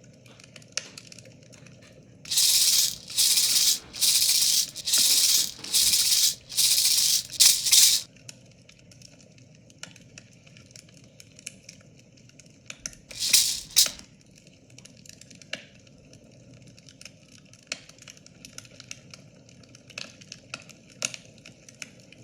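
A hand rattle shaken in a run of about seven even strokes, each a short burst of seed-like hiss a little under a second apart, then, after a pause, two more quick shakes near the middle.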